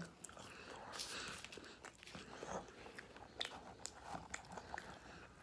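Faint chewing of food close to the microphone, with scattered small mouth clicks.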